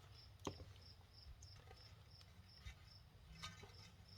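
Near silence with a cricket chirping in short, even pulses about three times a second, and a few faint clicks.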